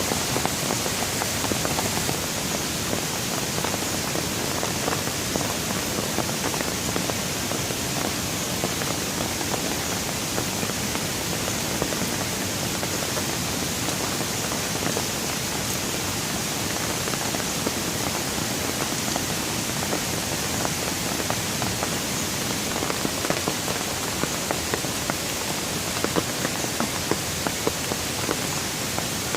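Steady heavy rain, with many separate drop impacts ticking through the even hiss and more of them near the end.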